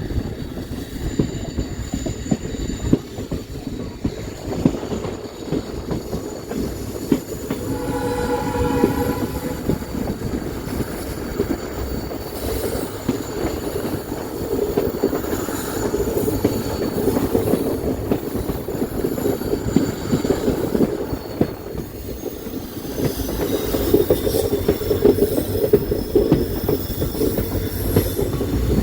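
Passenger train running on the rails: a steady rumble with wheel clatter, and thin high-pitched wheel squeal that bends in pitch near the end. A short horn blast sounds about eight seconds in.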